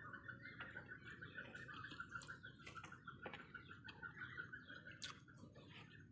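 Faint, steady chirping of birds, a fast pulsing trill that keeps going throughout, with a couple of soft clicks about three and five seconds in.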